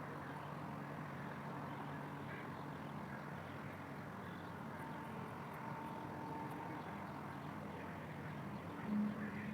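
Steady outdoor traffic noise from a city street, with a short honk-like call about nine seconds in.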